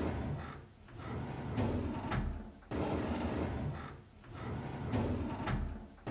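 A drawer sliding open on its runners over and over in a repeating loop. Each rumbling slide lasts about a second and a half, some begin with a sharp knock, and there is a short pause between slides.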